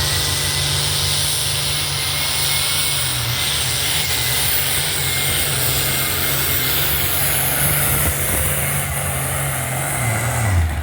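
Helicopter in flight, heard from the cabin: a steady engine whine and hiss over a fast, even rotor beat. It cuts off abruptly at the end.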